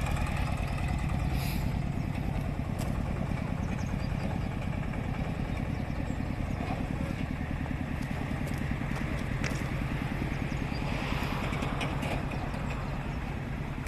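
Vintage stationary oil engine running steadily with an even, rapid beat.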